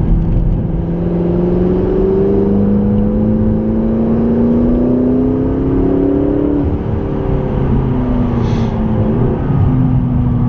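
McLaren 650S twin-turbo V8 pulling hard on track, its pitch climbing steadily for about six and a half seconds, then dropping and running steadier. There is a short hiss about eight and a half seconds in.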